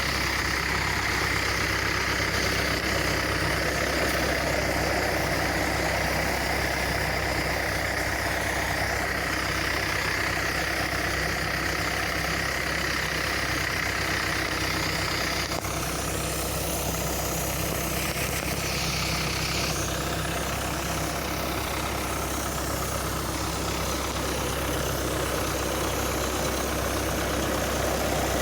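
Kubota engine running steadily, driving a high-pressure spray pump for herbicide. A high whine over the engine stops abruptly about halfway through, followed by a short hiss.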